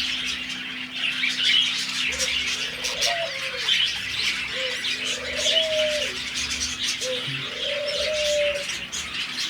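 A flock of budgerigars chattering and chirping steadily, with low cooing calls that recur every second or two.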